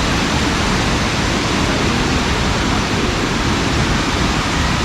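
Loud, steady rush of a waterfall's water pouring over rocks, an even noise with no breaks.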